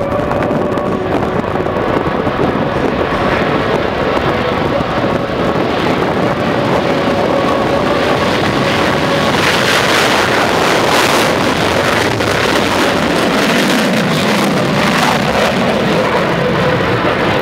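Fighter jet engines during a flying display, a loud rushing roar that builds to a peak about ten seconds in and then drops in pitch as the jet passes.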